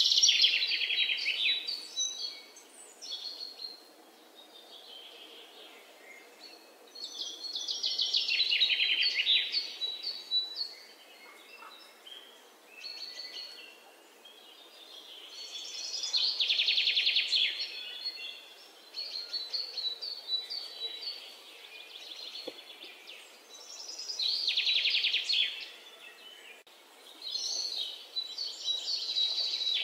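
Songbird singing: loud rapid trills that fall in pitch, repeated about every eight seconds, with quieter chirps and a thin steady high note between them.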